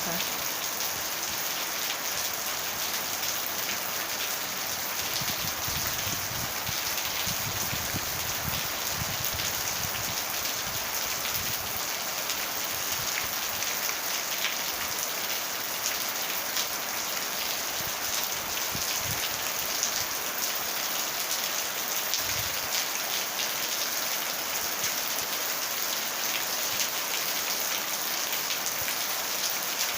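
Steady rain falling, an even hiss of rainfall with a few soft low knocks here and there.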